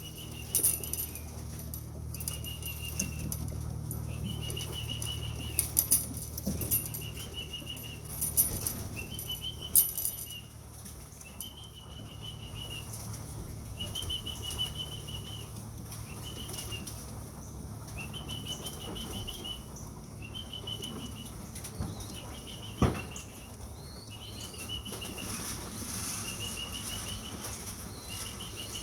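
Racing pigeons flapping their wings as they come down to the loft and trap in, with a few sharp wing clatters in the first ten seconds and a single knock about two-thirds of the way through. A high chirping note repeats about every second and a half.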